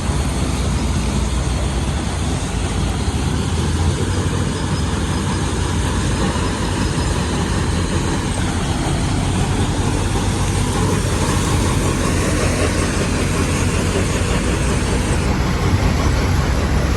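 Steady heavy rumble of a dump truck's diesel engine, mixed with a rushing noise, while the truck takes on an 8-ton load of rock or sand.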